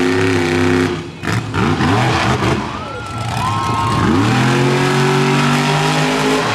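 Monster truck engine at high revs. It falls off about a second in, with a brief break and a few knocks, then the throttle comes back on about four seconds in and the revs climb and hold high.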